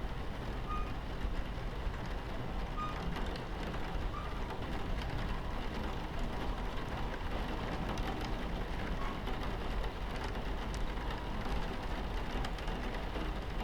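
Rain pattering on a train carriage window over the steady low rumble of the moving train.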